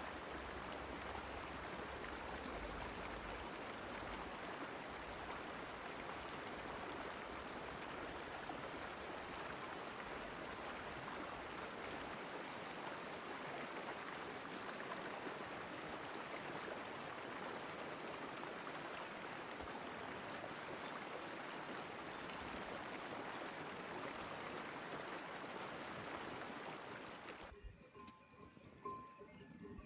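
Water of a mountain stream flowing and splashing in a steady, even rush, cut off abruptly near the end.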